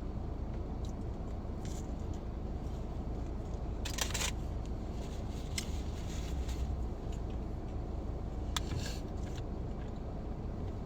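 Low, steady rumble inside a car's cabin, with brief rustles and clicks about four seconds in and again around eight and a half seconds.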